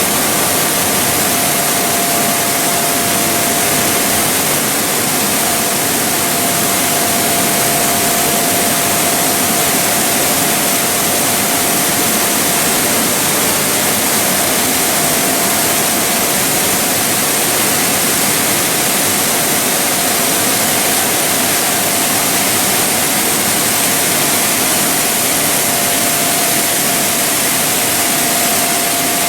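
Plastic pelletizing line machinery running: a loud, even rushing noise with a faint steady whine.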